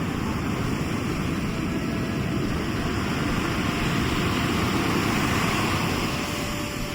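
Sea waves breaking and washing ashore, a steady rush of surf that swells to a peak about two-thirds of the way through and then eases off.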